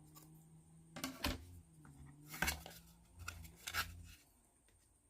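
Thin plywood kit parts being handled and fitted together by hand: a few light wooden clicks and knocks with some rubbing, going quiet about four seconds in.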